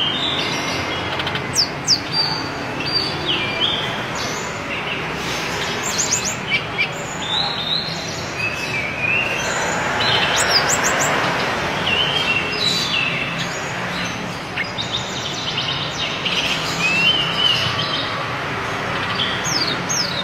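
Hill blue flycatcher (tledekan gunung) singing: a continuous run of short chirps and warbled, falling whistles over a steady background hiss.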